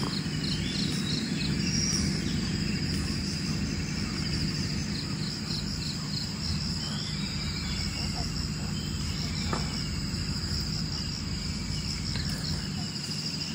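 Dawn forest chorus: a steady, pulsing high trill of insects such as crickets, with scattered bird chirps and whistles over it.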